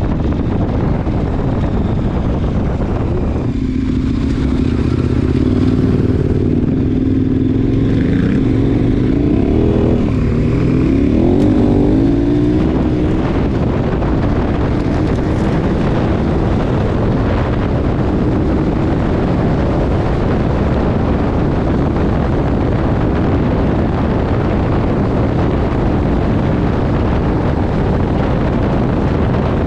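KTM 1090 Adventure's V-twin engine under way on a gravel road, mixed with wind and tyre noise. Between about four and twelve seconds in the engine note rises and falls with the throttle, then it settles into steady running.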